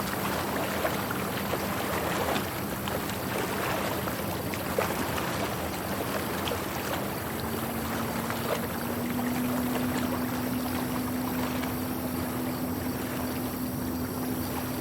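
A boat running on the water: a steady rush of water and wind with small splashes, over a low engine hum that rises a little in pitch about halfway through.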